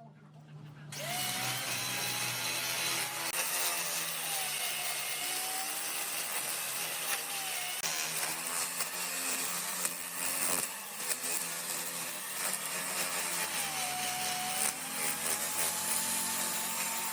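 Electric woodworking power tool cutting wood. It starts about a second in, with a high motor whine that dips and recovers under load over a steady gritty hiss.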